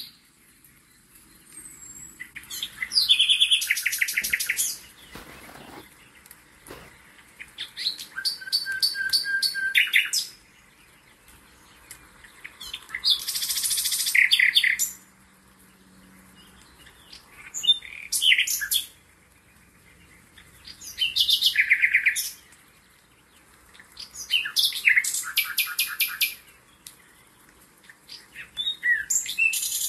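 A songbird singing: short, high phrases of rapid trilled notes, repeated about every three to four seconds with quiet gaps between.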